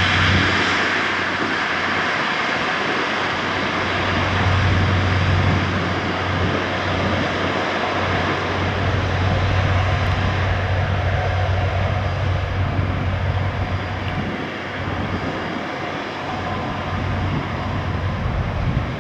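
Airbus A330-300's two Rolls-Royce Trent 700 turbofans at takeoff thrust: a steady rushing jet noise that slowly fades as the airliner moves away, with a low hum underneath.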